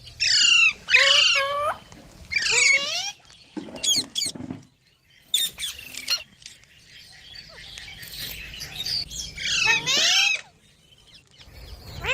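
Green parrots calling in a series of short bursts with rapidly wavering pitch, the loudest in the first three seconds and again about ten seconds in.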